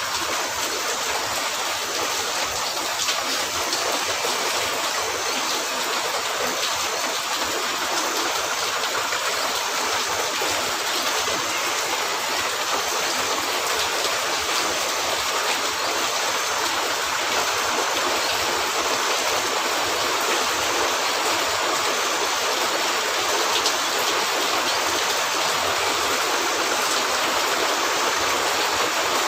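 Steady rain falling on a cabin roof: an even, unbroken hiss of water.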